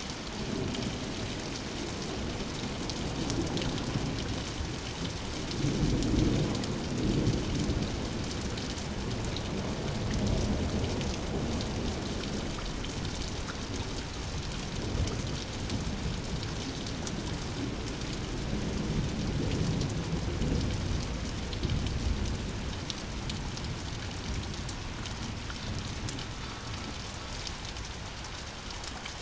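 Steady rain falling, with low thunder rumbling in two long swells: one about five seconds in and another around twenty seconds in.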